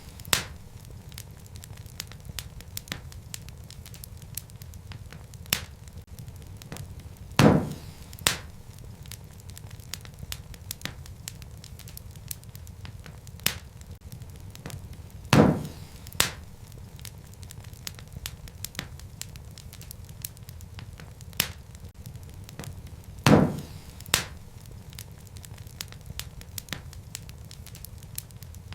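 Wood fire burning in a fireplace: a steady low rumble with frequent small crackles of burning logs. A louder pop comes about every eight seconds, three times, each followed by a second, smaller pop a moment later.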